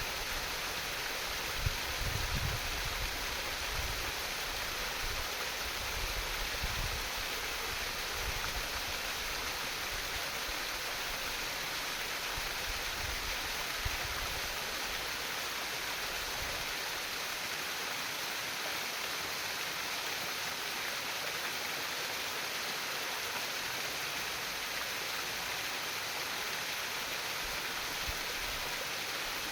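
Stream water trickling and babbling steadily, with a few low rumbles in the first half.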